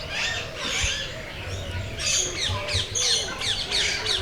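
Many birds calling at once: a dense chorus of quick, high, falling chirps overlapping one another, with a few lower calls beneath.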